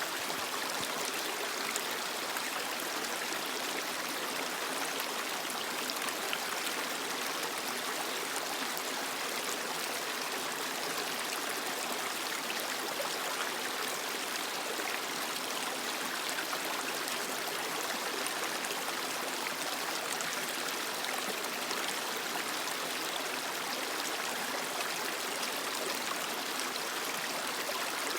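Creek water flowing and splashing over rocks, a steady rush with small trickles and gurgles in it.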